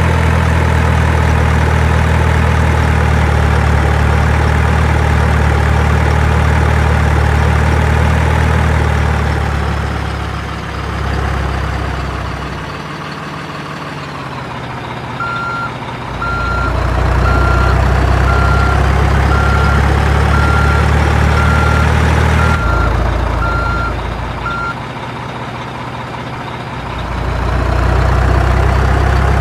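Heavy truck engine running steadily, easing off twice. About halfway through, a reversing alarm beeps steadily for about ten seconds.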